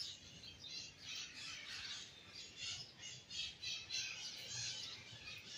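Pet birds squawking in a rapid run of high, repeated calls; they are calling for food as they feed one another.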